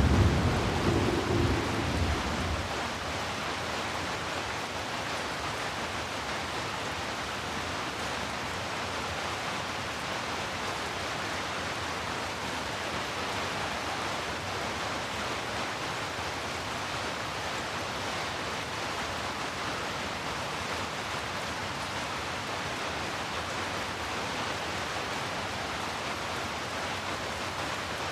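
Steady rain hiss. A low thunder rumble dies away over the first two seconds or so.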